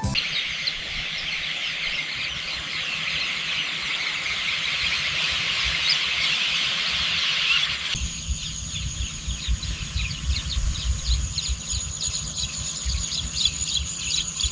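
Outdoor nature ambience of insects and birds. First a dense, buzzing insect chorus; then, about eight seconds in, it changes to a steady high insect trill with many quick bird chirps over a low rumble.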